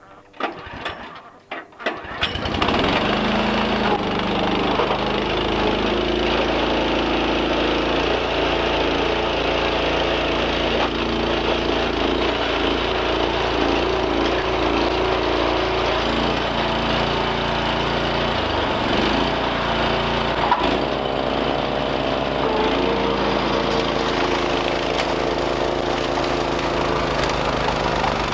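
Small gas engine starting: a few short sharp sounds, then it catches about two seconds in and runs steadily and loudly.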